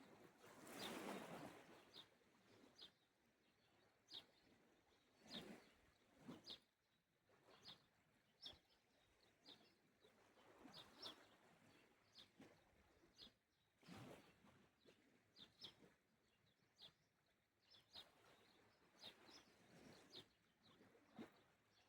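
Faint small sea waves washing softly onto the shore now and then, with a bird giving short high chirps every second or so throughout.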